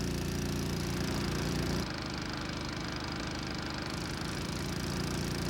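A small engine running steadily, its tone shifting slightly about two seconds in.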